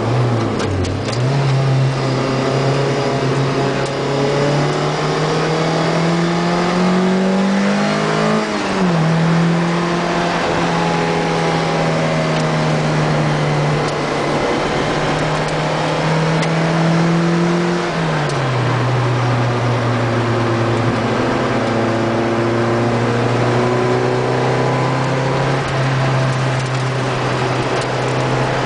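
Lotus Elise 111S engine heard from on board at racing speed. Within the first second it drops and jumps back up twice, then climbs steadily in revs to an upshift about eight seconds in. It holds steady, drops in revs around eighteen seconds in, and climbs slowly again.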